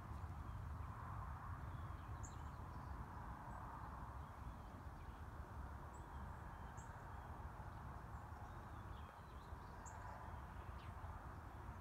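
Quiet outdoor background with a steady low rumble, and a few short, high bird chirps scattered through it.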